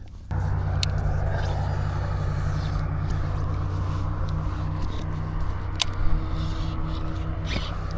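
A motor running steadily at a constant low pitch, with a haze of noise over it and a few light clicks.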